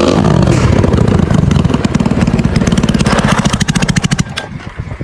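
Motorcycle engine running loud and close, with rapid even exhaust pulses, then fading away about four seconds in.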